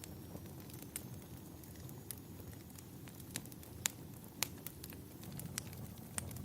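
Wood fire burning in a fireplace: irregular sharp crackles and pops, the loudest two a little before and after the middle, over a steady low rumble.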